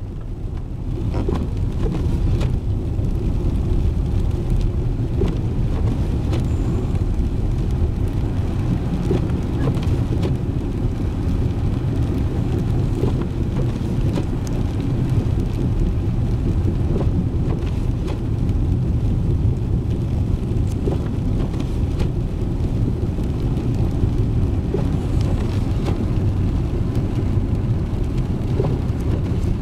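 Pickup truck driving on a snowy road, heard from inside the cab: a steady low rumble of engine and tyres that swells over the first couple of seconds and then holds level.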